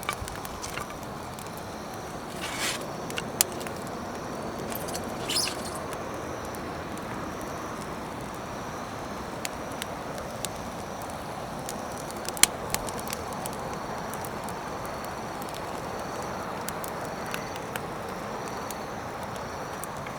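Wood campfire burning: a steady hiss with scattered sharp crackles and pops, one louder pop about three seconds in and another about twelve seconds in.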